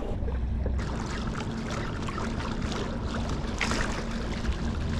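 Newport NK180 electric motor driving a loaded fishing kayak at about 5 mph: a steady hum over the rush of water along the hull.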